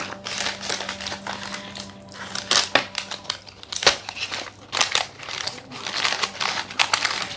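Food packaging crinkling and crackling as it is handled, in irregular rustles with several sharper crackles.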